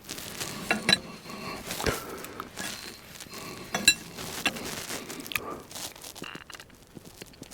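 Metal hand tools clicking, clinking and scraping against a hydraulic fitting as its nuts are tightened: a run of irregular sharp clicks with brief metallic rings in between.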